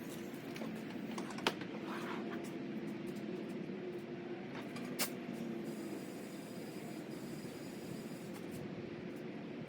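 Air compressor running steadily as it pumps a car tire up toward 32 PSI, a low motor hum with a held tone. Two sharp clicks come about a second and a half in and again about five seconds in.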